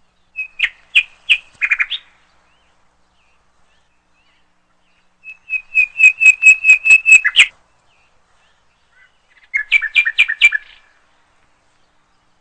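Bird chirping in three short runs of quick, evenly repeated notes, each run lasting one to two seconds with pauses between them.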